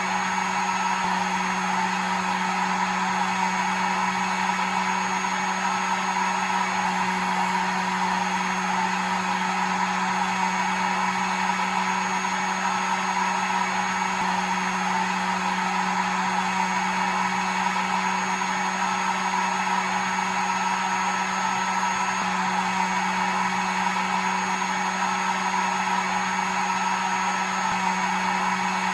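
Hair dryer running steadily: a constant rush of air with a low motor hum and a faint high whine.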